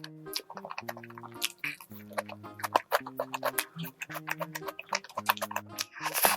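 Background music of soft held notes, with close-miked eating sounds over it: many short crisp clicks of biting and chewing into a Hong Kong egg waffle filled with whipped cream.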